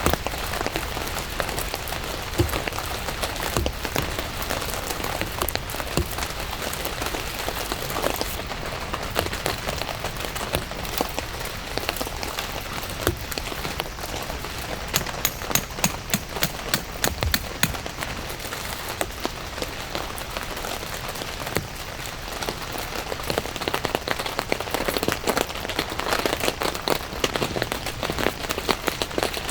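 Steady rain falling, with many individual drops striking close by as sharp ticks over the hiss; the drop hits come thicker and louder around the middle.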